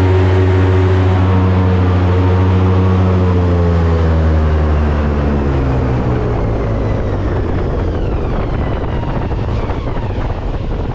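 Airboat's engine and air propeller running hard with a loud, steady drone, which falls in pitch about four to six seconds in as the boat throttles back, leaving a rushing hiss.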